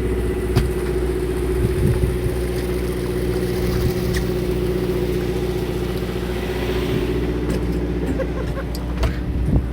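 A fishing boat's engine running steadily, a constant low drone with a held hum, with a few sharp clicks and knocks on board.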